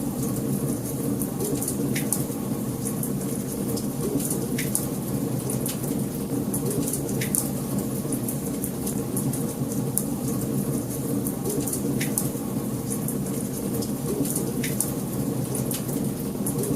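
Wood fire burning in a fireplace: a steady low rumble of flames under frequent small crackles, with a sharper pop every few seconds.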